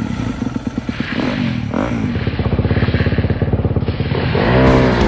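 Motocross bike engine revving up and down, with a stretch of rapid, even engine pulses in the middle.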